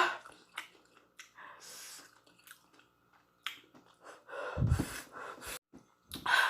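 Close-miked mouth sounds of a person chewing instant noodles: scattered small wet clicks and smacks, with breaths in between, including one heavier breath about four and a half seconds in.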